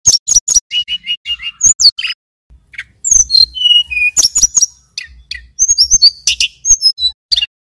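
Male tledekan gunung (sulingan gunung) singing a rapid run of high, sharp chirps and short whistled slurs, with a brief lull about two seconds in.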